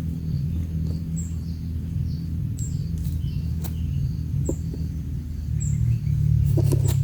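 Short, high bird chirps repeating about once a second over a steady low rumble, with a few sharp clicks near the end.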